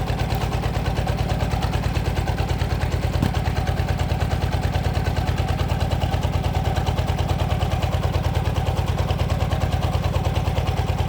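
Single-cylinder diesel engine of a two-wheeled power tiller running steadily with an even, fast beat. It is the engine driving a hydraulic log splitter built onto the tiller.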